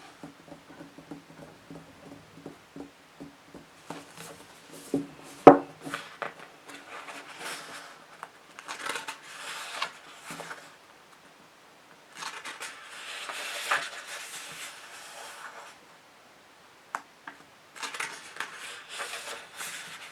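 Fingernails tapping and scratching on books: a run of light taps with one sharp knock about five seconds in, then three spells of scratching.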